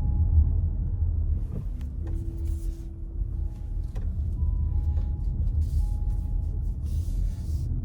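A car driving on the road: a low, steady rumble of engine and tyres, with a couple of sharp clicks and short bursts of hiss in the second half.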